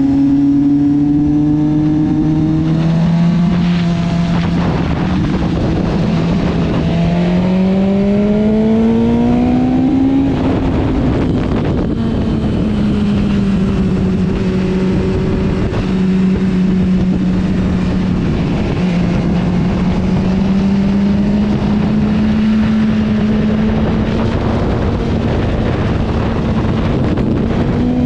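Motorcycle engine running at speed on a track, with wind rushing over the microphone. The engine note climbs as it accelerates about a third of the way in, then holds fairly steady.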